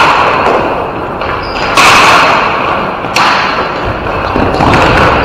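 Ball hockey play: a series of loud thuds and slaps, about three or four, as the ball and sticks hit the rink boards, each ringing on in a large hall.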